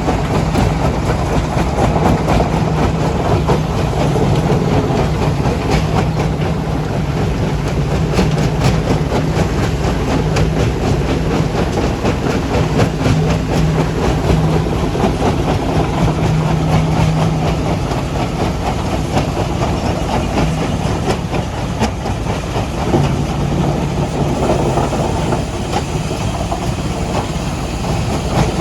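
Rock crusher and heavy diesel machinery working stone: a steady engine drone under continuous clattering and knocking of rock.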